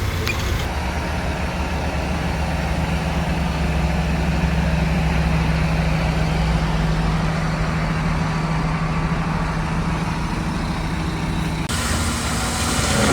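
Heavy diesel engine of earthmoving machinery running steadily with a low, even drone. Near the end the sound changes abruptly to a brighter, noisier mix.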